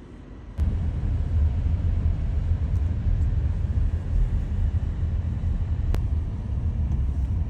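Steady low rumble of a running car heard from inside the cabin, starting abruptly about half a second in, with a single faint click near the end.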